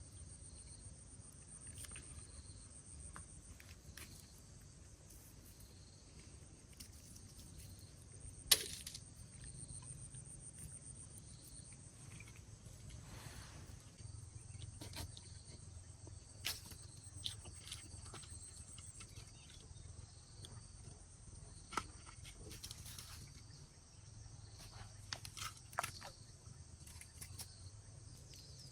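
Insects trilling faintly in a high, steady whine that comes and goes in long stretches, with scattered sharp clicks and knocks, the loudest one about eight seconds in.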